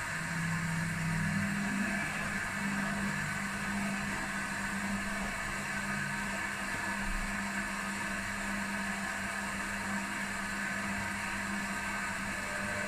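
Two washing machines running early in their short 30 °C wash programs, a steady machine hum over an even hiss. One of two hum tones drops away about six seconds in.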